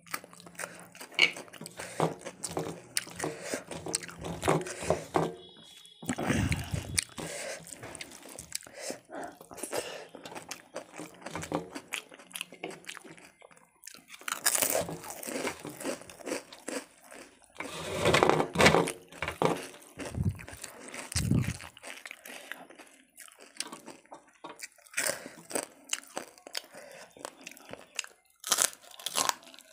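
Close-miked eating sounds: wet chewing and smacking of hand-eaten curry and rice, broken by loud crunching bites of crisp food, papad and raw cucumber slices.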